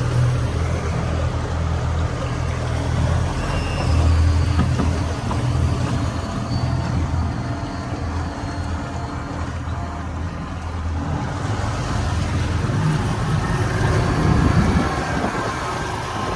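Motorboat engine running steadily under way: a low drone under a constant rush of noise, its level slowly swelling and easing.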